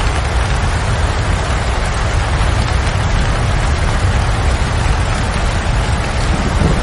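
Steady rain falling, an even hiss of drops with a deep low rumble underneath. Right at the end a roll of thunder begins.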